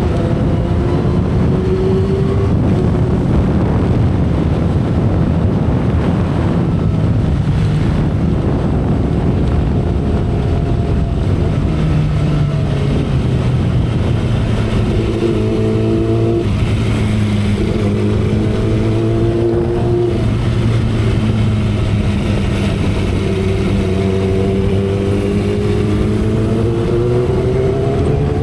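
2012 Kawasaki Ninja ZX-10R's inline-four engine and exhaust at expressway speed, heard from the saddle under heavy wind rush. The engine note climbs at the start, holds steady through the middle, and climbs again over the last few seconds as the bike accelerates.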